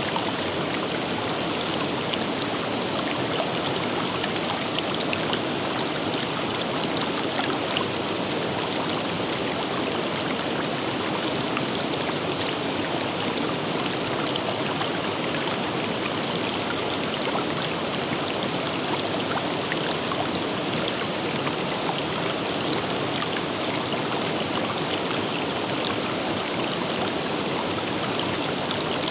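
Forest river flowing steadily, a continuous rushing and babbling of water. Over it runs a steady high-pitched sound that stops about two-thirds of the way through.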